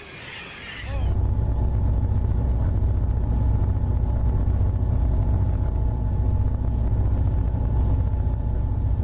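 A train running with a steady, loud low rumble that sets in about a second in, a faint steady whine over it.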